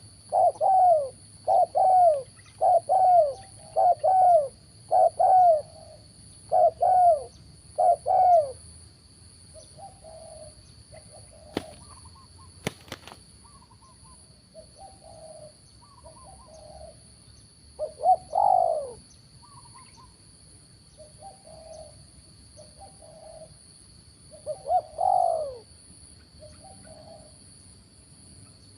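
Spotted doves cooing: a quick run of loud repeated short coos for the first eight seconds or so, then softer, scattered calls with a couple of louder coos later on. A faint steady high whine runs underneath, and two sharp clicks come a little before the middle.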